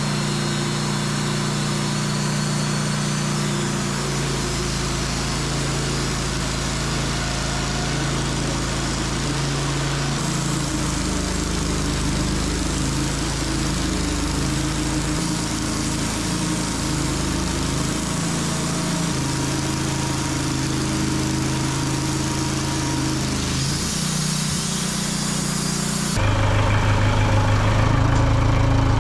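Sawmill engine running under load while its blade saws through a hard maple log, the engine pitch wavering through the cut. About 26 seconds in, the sound turns louder and deeper.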